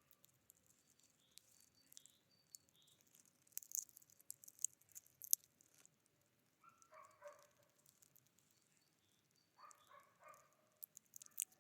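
Faint animal calls, coming as two short bursts of a few quick notes each in the second half, with scattered sharp high clicks in between.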